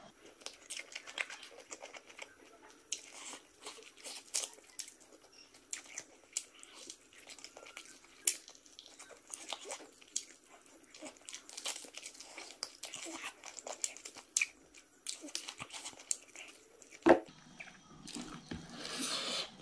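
Chewing and biting of a mouthful of rice and boiled chicken eaten by hand, heard as many small, sharp wet mouth clicks. There is one louder knock about seventeen seconds in, and near the end a rustle as fingers gather rice from the plate.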